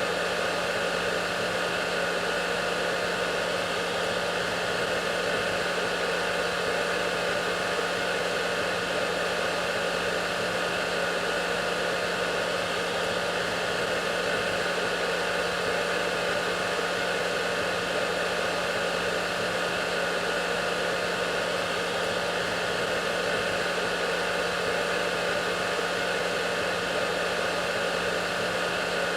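Hair dryer running steadily: an unchanging rush of blown air with a constant motor hum underneath.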